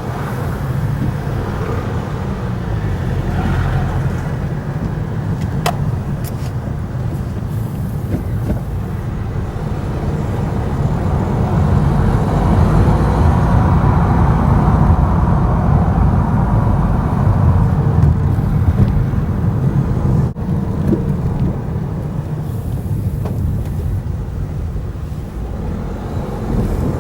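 A car on the move: steady engine and road noise with a heavy low rumble that grows a little louder in the middle, and a single sharp click about six seconds in.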